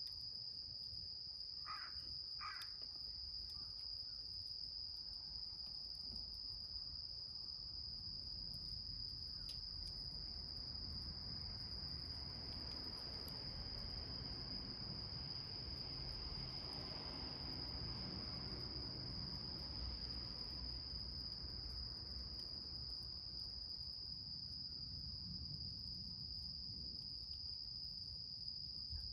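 Steady, high-pitched insect chorus of crickets, with two short crow caws about two seconds in. A low rumble swells and fades through the middle.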